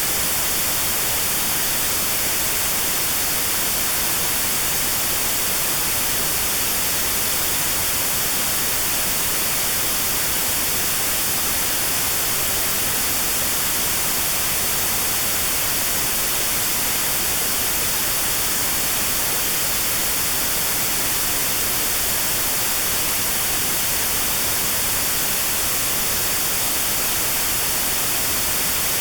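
Steady white noise with a narrow band around 4 kHz notched out: notched sound therapy for 4 kHz tinnitus.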